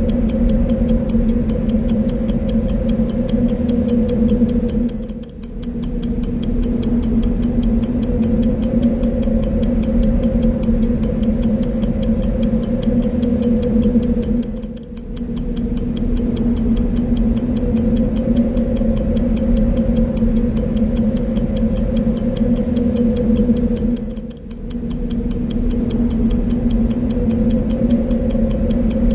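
Clock ticking at a fast, even rate over a steady wind noise with a low hum in it. The background dips briefly three times, about every nine and a half seconds.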